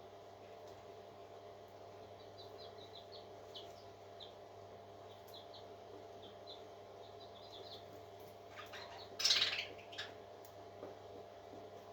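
Newly hatched parrot chicks peeping: many short, faint, high cheeps over a steady low hum. About nine seconds in comes one short, loud, noisy burst, followed by a few smaller ones.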